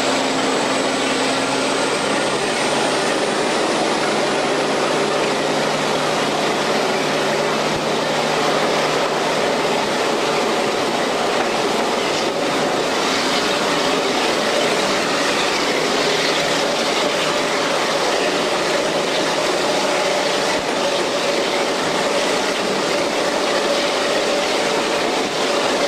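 A train running steadily through a tunnel, heard from on board: continuous wheel-on-rail running noise with a faint steady hum.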